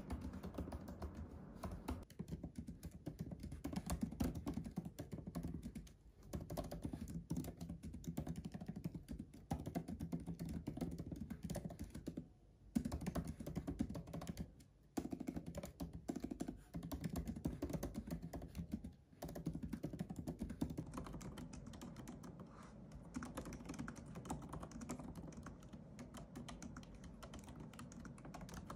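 Continuous typing on a MacBook laptop's low-profile keyboard: a dense run of key clicks, broken by a few short pauses and a little lighter in the last third.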